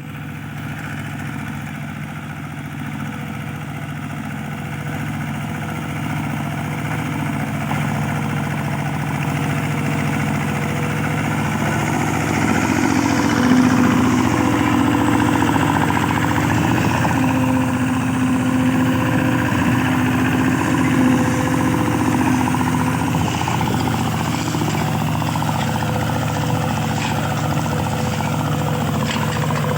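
Mini tractor engine running steadily while plowing soil, getting louder over the first dozen or so seconds and then holding steady.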